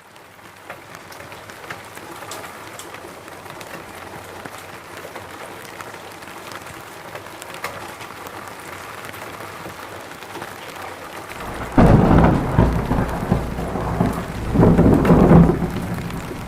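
Steady rain falling, with scattered drops ticking through the hiss. About twelve seconds in a thunderclap breaks in suddenly and rumbles low for about four seconds, swelling once more before fading; the thunder is the loudest sound.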